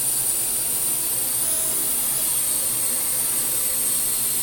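Parrot AR.Drone quadcopter in flight, its four electric motors and propellers giving a steady high-pitched whine.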